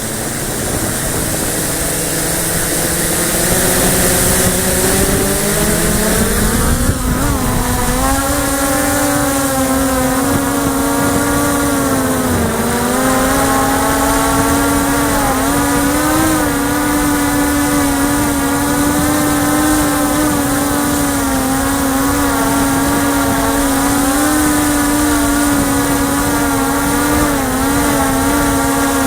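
Small X8 coaxial multirotor drone's electric motors and propellers spinning up with a rising whine over the first several seconds, then hovering with a steady buzz whose pitch wavers up and down as the motors adjust their speed. Wind rumbles on the microphone underneath.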